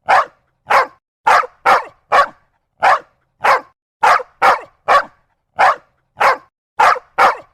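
A dog barking repeatedly: about fifteen short, sharp barks with brief silences between them, coming at an uneven pace.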